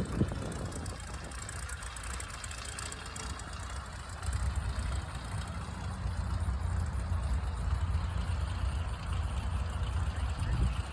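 Light aircraft engine running at low power, a steady low rumble that grows louder about four seconds in.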